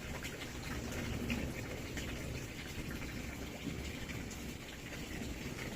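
Rain falling steadily, with many separate drops ticking sharply on a nearby surface over a low steady rumble.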